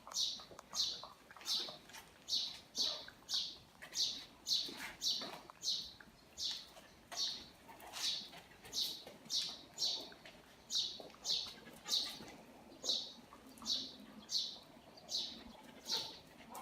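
A bird chirping over and over, short high notes at a steady pace of nearly two a second.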